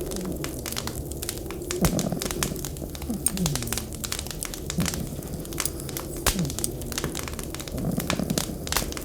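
Wood fire crackling with frequent sharp pops, over a low whistling wind that now and then slides down in pitch.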